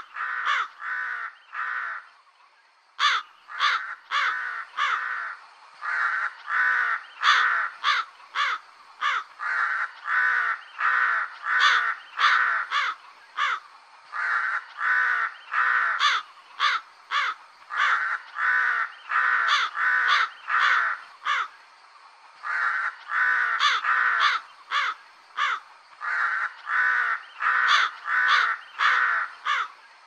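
Crow cawing over and over: short caws in quick runs of several, with brief pauses between the runs.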